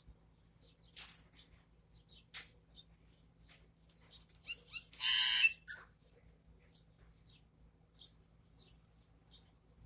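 Pet bird chirping in short, high, scattered notes, with one louder, harsh squawk lasting about half a second around the middle.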